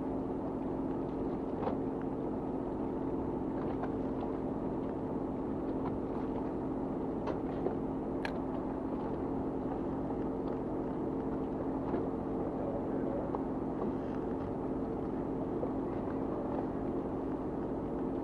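A fishing boat's engine running with a steady hum, with a few faint clicks and taps scattered through it.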